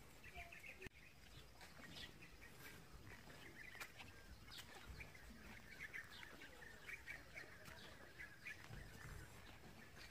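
Faint bird chirping: short high notes repeated over and over, with a few soft clicks.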